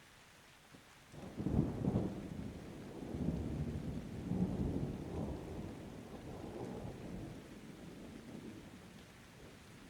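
A thunderclap breaks in about a second in and rumbles on in several low swells, fading slowly over the next several seconds, over a steady hiss of rain.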